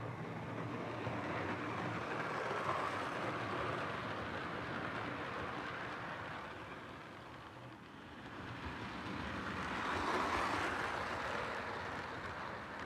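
Postwar Lionel O gauge 2-6-2 steam locomotive running on the track, a continuous mechanical rumble of its motor and wheels. It swells about two seconds in, dips near eight seconds and swells again about ten seconds in.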